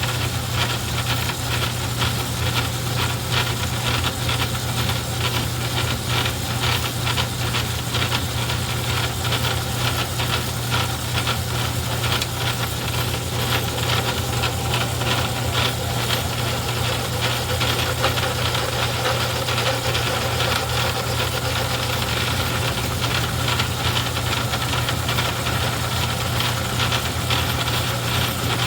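Craftsman 109 metal lathe running steadily under power, a constant motor hum with a fast, even rattle from the drive.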